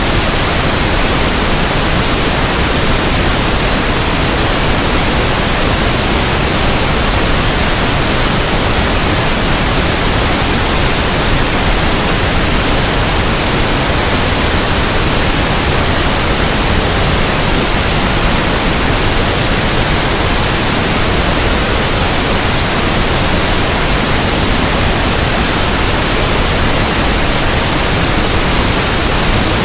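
Pink noise: a loud, constant, even hiss spread from deep to high pitches, with no changes.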